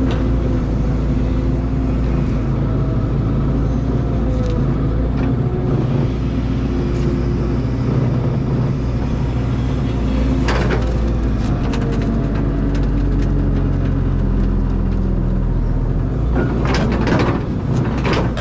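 Caterpillar excavator's diesel engine running steadily under load, with faint whines that rise and fall in pitch as it works. There is a sharp knock about halfway through and a few more near the end.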